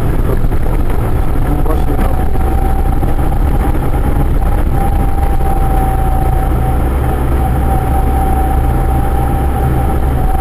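Vehicle engine running steadily, heard from inside the cab as a loud low drone. A thin steady whine joins it about a second and a half in.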